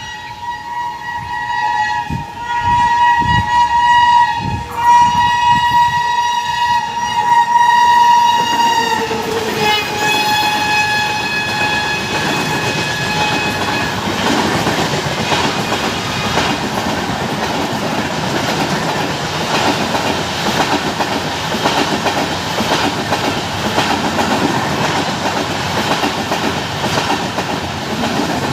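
Indian Railways superfast express passing through a station at speed without stopping. The locomotive sounds two long horn blasts that drop in pitch as it goes by, about nine seconds in, followed by the steady rattle and clickety-clack of the coaches rushing past.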